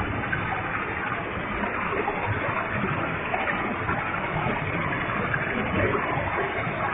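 Waterfall with a heavy flow: water falling and splashing in a steady, unbroken rush.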